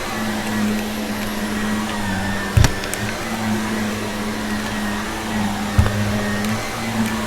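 Vacuum cleaner running steadily, its motor humming under the rush of suction, with scattered faint ticks of debris and two sharp thumps, about a third of the way in and near the end.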